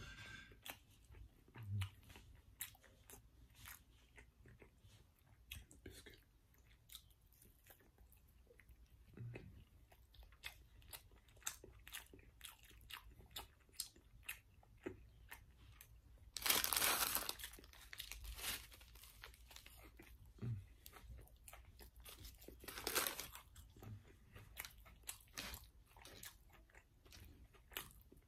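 Close-miked chewing and eating sounds, with many small clicks and taps of a metal fork on a plastic food tray. There is a louder noisy burst a little past halfway through, and another about three-quarters through.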